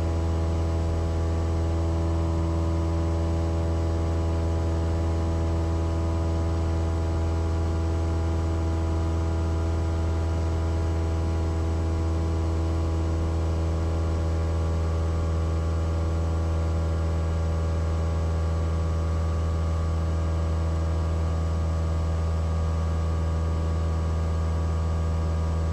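Cessna 172's piston engine and propeller droning steadily at one unchanging pitch from inside the cabin, at takeoff power.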